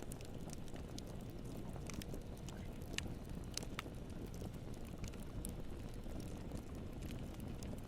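Wood campfire burning, with a steady low rush of flame and scattered small crackles, plus a few sharper pops near the middle.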